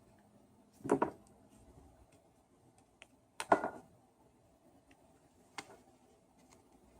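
Hard parts and tools being handled during a repair: two short clattering knocks, about a second in and about halfway through, then a light click near the end.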